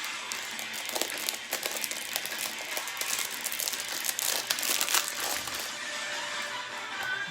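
Plastic wrapping crinkling and crackling as it is handled, in irregular bursts that grow denser about four to five seconds in, typical of packaging on a box of trading cards being worked open.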